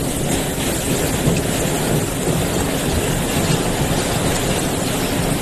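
Steady roar of storm wind and water, an even noise with no distinct events.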